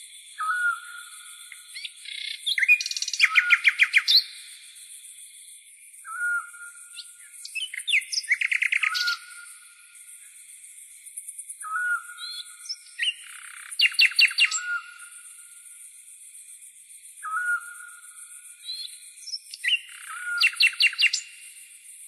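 Songbird singing a repeated phrase, a short whistled note followed by a fast ringing trill, about every six seconds, four times, over a steady high hiss.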